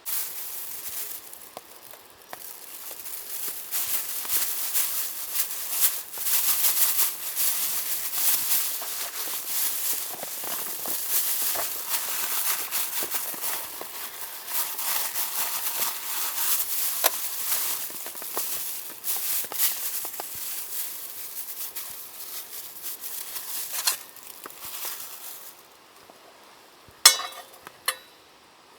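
Dense sizzling crackle full of small pops, which drops away about 26 seconds in; two sharp clicks follow near the end.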